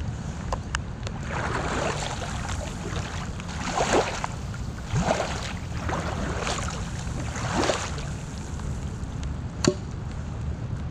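Kayak paddle strokes: the blade splashes and swishes through the water about five times, over a steady low rumble. A single sharp knock near the end is the loudest sound.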